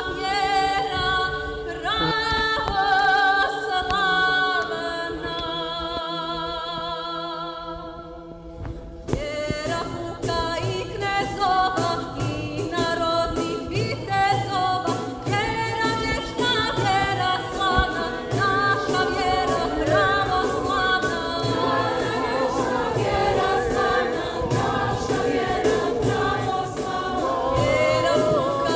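A choir singing religious music, holding long sustained chords that fade about eight seconds in; a new, more moving passage begins about a second later.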